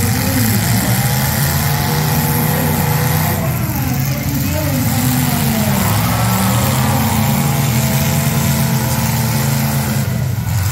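Big V8 engines of battered demolition-derby cars running and revving at once, their pitch rising and falling as they throttle up and back off. It is loud throughout.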